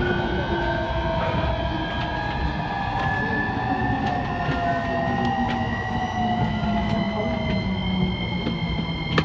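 E231-series suburban train running, its unrenewed inverter whining in several tones, one slowly rising in pitch while others fall, over a steady low rumble of wheels and track with a few faint rail-joint clicks.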